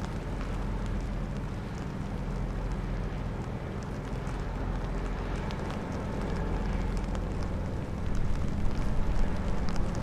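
Strong wind buffeting the microphone: a low, uneven rumble that gusts louder about eight seconds in.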